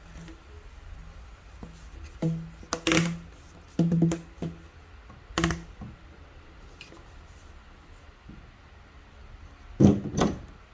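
A run of irregular knocks and thuds, each with a brief low ring. The two loudest come close together near the end.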